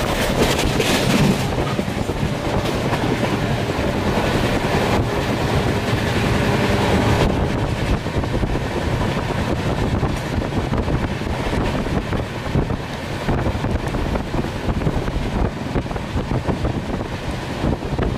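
Express passenger train running at speed, heard from the open doorway of a coach: a steady rumble of wheels on the rails. The high hiss drops off about seven seconds in.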